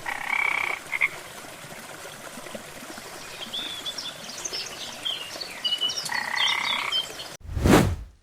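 Animal calls over a steady hiss: a pitched croaking call near the start and another about six seconds in, with a run of short high chirps between them. A loud whoosh comes near the end.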